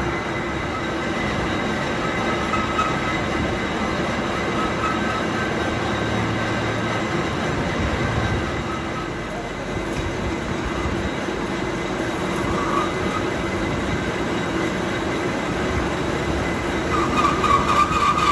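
Steady mechanical running noise from workshop machinery, with a high-pitched squeal coming in near the end.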